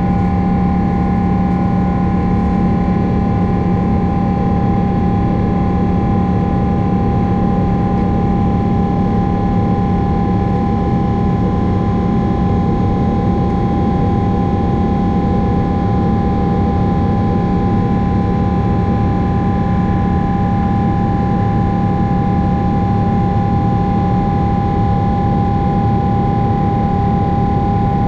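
Boeing 777-300's jet engines and airflow heard inside the cabin: a steady, loud rumble with constant whining tones over it.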